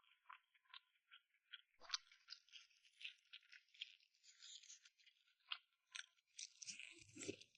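Close-miked mouth sounds of someone chewing and eating: many short, soft wet clicks and smacks in a quick irregular run, with a brief low thump near the end.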